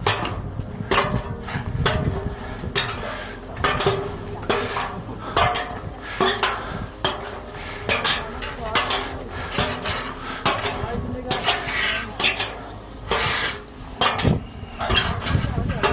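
A hiker's footsteps on snow and ice, with sharp metallic clinks at about one step a second.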